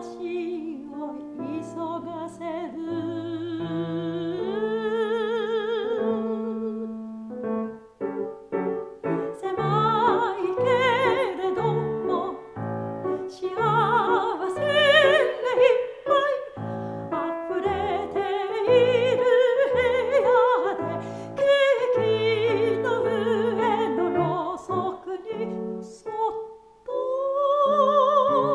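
Soprano voice singing a Japanese art song with wide vibrato, accompanied by piano playing repeated chords. The voice pauses briefly about eight seconds in and returns over the piano.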